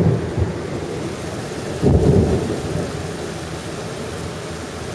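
Thunderstorm: steady heavy rain with rolls of thunder, one just at the start and a louder one about two seconds in that rumbles and fades away.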